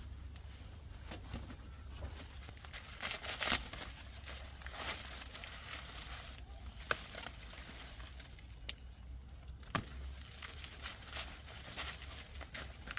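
Irregular rustling and crinkling with scattered sharp clicks and snaps, over a low steady hum.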